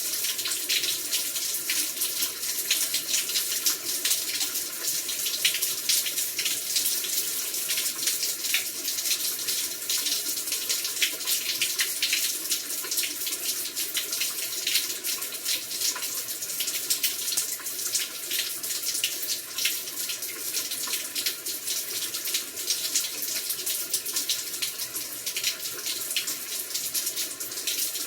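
Heavy rain pouring steadily: a dense, even hiss full of countless fine drop impacts.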